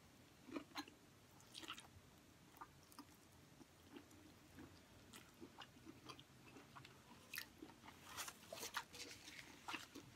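Faint close-up chewing of boiled lobster tail meat in spicy sauce: soft wet mouth clicks and smacks, scattered at first and coming thicker near the end.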